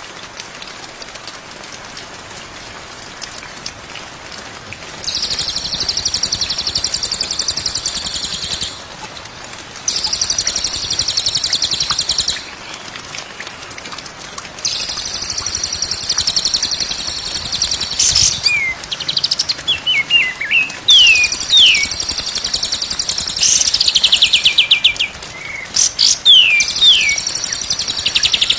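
Recorded songbirds singing. Long, high, rapid trilled phrases alternate with short pauses, and from about two-thirds of the way in, quick falling whistled notes are mixed in.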